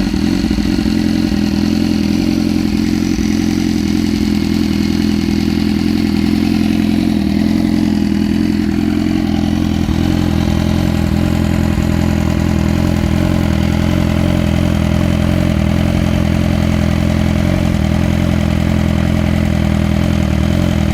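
BMW S1000RR inline-four idling steadily through an SC Project exhaust, its baffle removed so the exhaust stays fully open.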